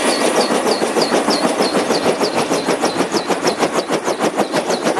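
Huey helicopter running, its rotor blades beating in a fast even rhythm of about eight to ten pulses a second, with a turbine whine.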